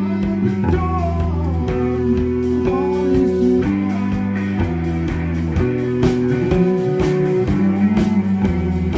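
Band playing live: a guitar-led instrumental passage over held chords and a steady bass, with bending lead notes about a second to three seconds in.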